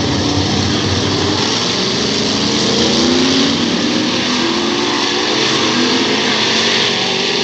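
Several dirt-track stock car engines running loud together, their pitch rising and falling as the cars accelerate and ease off.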